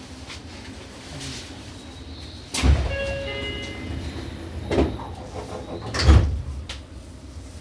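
Passenger doors of a Seibu 6000 series electric commuter train sliding shut at a station stop: a heavy door thud about two and a half seconds in, then two more thumps about two and three and a half seconds later. Short tones sound just after the first thud.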